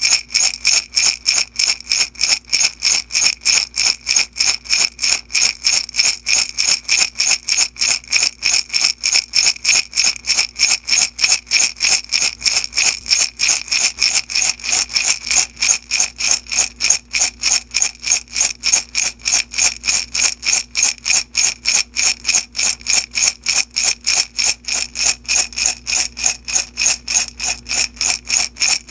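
Small beads rattling in a glass jar shaken back and forth in a steady, even rhythm, about three shakes a second, with a bright ring from the glass.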